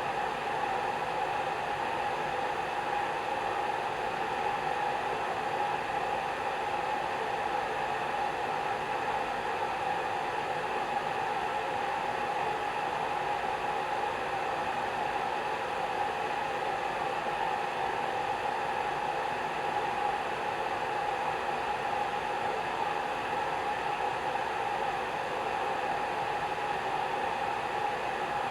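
Hair dryer running steadily: an even rushing hiss of blown air with a faint motor hum around the middle of the range, unchanging throughout.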